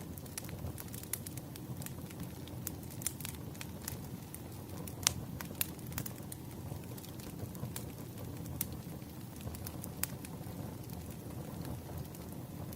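Wood fire crackling: a steady low rumble of burning logs with irregular sharp pops and snaps, the loudest about five seconds in.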